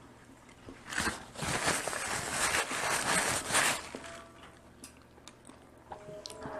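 Dungeness crab shell being cracked and crunched, a dense run of crackling from about a second in until nearly four seconds, followed by a few scattered small cracks.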